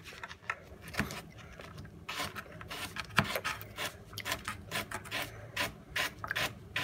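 Kitchen knife cutting carrot on a cutting board: a run of irregular knocks and clicks, with scraping and rubbing between them.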